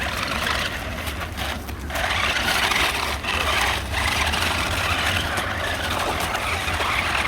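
Battery-powered remote-control toy monster truck driving: its electric motor and gears whirring with tyre noise, steady and getting louder about two seconds in.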